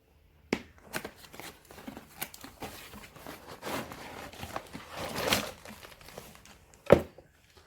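A cardboard box being opened and its packaging handled: irregular rustling, crinkling and small clicks, with one sharp knock about seven seconds in.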